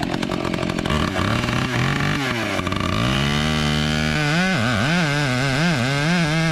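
A chainsaw running for about the first second, then background music takes over: held electronic notes that slide down and back up in pitch, then waver.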